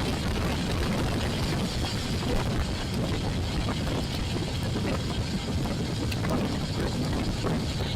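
Royal Enfield Classic 350 single-cylinder motorcycle under way, heard through an action camera: a steady rush of engine, wind and road noise without breaks.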